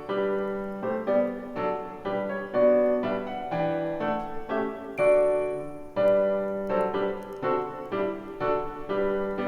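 Gentle solo piano music from a Christmas song medley: a calm melody over chords, its notes struck one after another at an easy pace.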